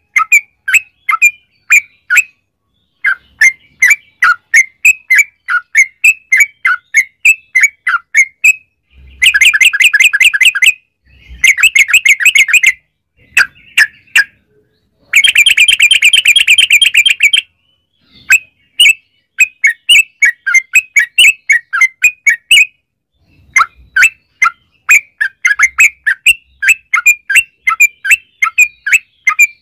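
Yellow-vented bulbul (trucukan) singing a long, excited rapid-fire song: quick runs of short chirping notes, about three or four a second, broken three times by dense, fast trills.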